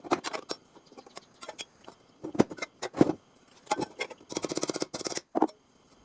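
Hand tools and metal parts being handled: a string of sharp clicks and knocks, then a rapid ticking rattle for about a second near the end.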